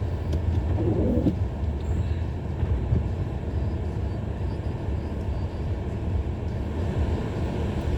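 Car driving slowly on snow, heard from inside the cabin: a steady low rumble of engine and tyres.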